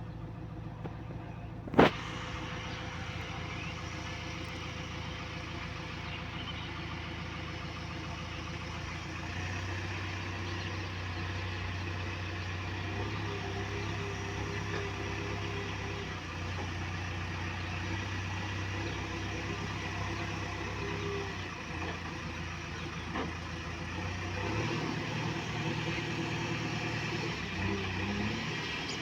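Heavy diesel engine of a JCB backhoe loader or tractor running steadily at idle. There is a sharp click about two seconds in, and the engine note rises briefly near the end.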